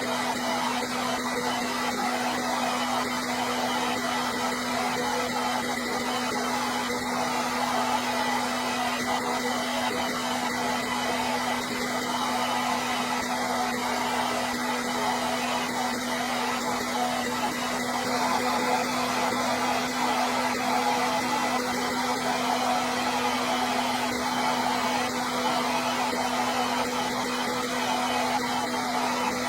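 Hair dryer running steadily: a continuous blowing rush of air over a steady low motor hum, with no change in speed.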